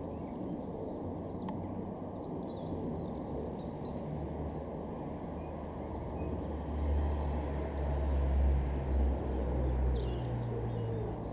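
Outdoor ambience: a steady low rumble that swells for a few seconds around the middle, with birds chirping now and then.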